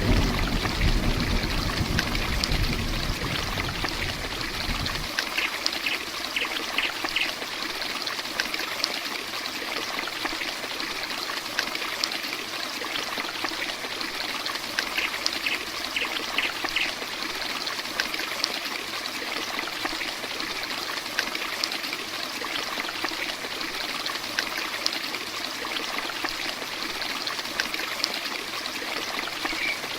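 Heavy rain falling steadily, a dense hiss full of small drop clicks. A low rumble underneath cuts off about five seconds in, and twice a quick run of about five short high chirps sounds over the rain.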